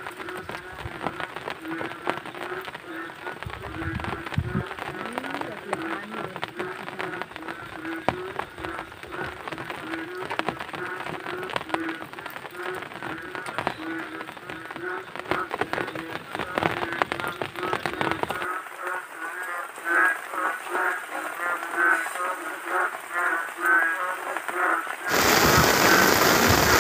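Rain falling on a flooded rice paddy, with many small drop ticks, while frogs call over and over at an even pace. About 25 seconds in it cuts suddenly to loud music.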